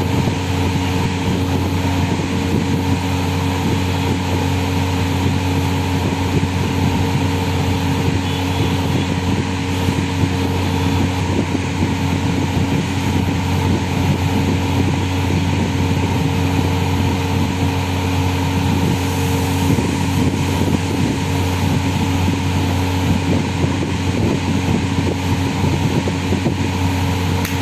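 A steady machine hum with a few fixed droning tones over an even hiss, unchanging throughout.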